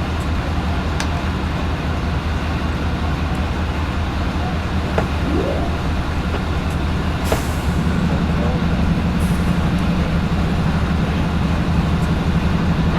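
Diesel locomotive engine idling with a steady low hum. There is a short hiss of air about seven seconds in, and the engine note grows fuller soon after.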